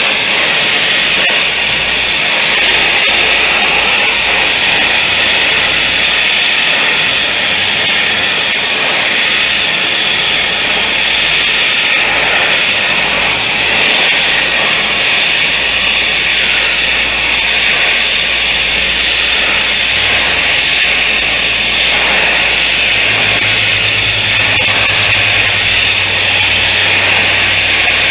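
Steady, loud rushing noise of a forge running, with no distinct hammer blows; a low hum joins it near the end.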